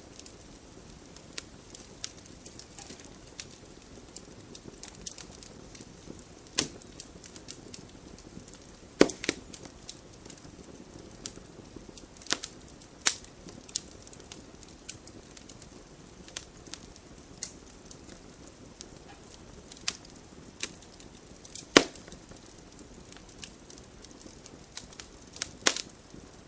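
Wood fire burning in a fireplace, crackling over a steady low hiss, with irregular sharp pops from the burning logs; the loudest pops come about 9 and 22 seconds in.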